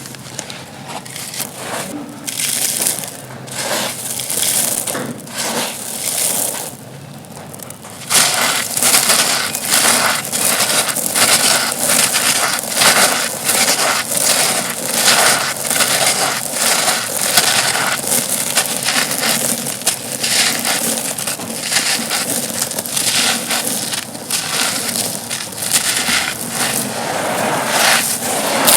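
Dry, dusty, stone-like chunks being crushed and crumbled, giving dense crunching and crackling. The crunches are sparser and softer at first, then turn louder and continuous about eight seconds in.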